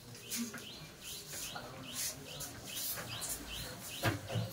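Small birds chirping in quick, rising chirps, about three a second, with a brief low knock about four seconds in.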